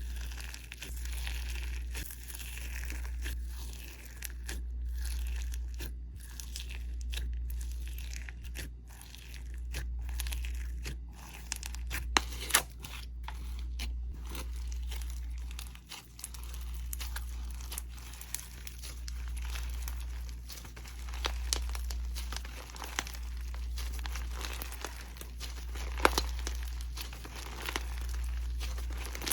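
Slime being squeezed and stretched by hand, with a steady run of small crackles, crinkles and tearing sounds and a few sharper snaps. Under it a low rumble swells and fades about every two seconds.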